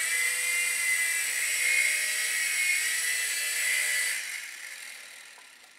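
Micro RC helicopter's small electric rotor motors whirring at a high pitch, rising briefly as they spin up, holding steady for about four seconds, then winding down and fading out.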